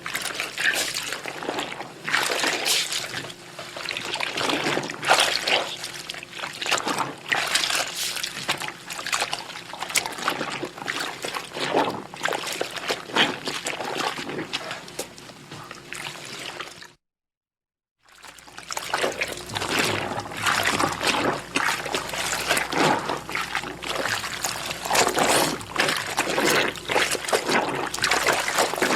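Clothes being washed by hand in water: irregular sloshing, splashing and dripping as the wet fabric is worked. About seventeen seconds in it drops to total silence for about a second, then the splashing resumes.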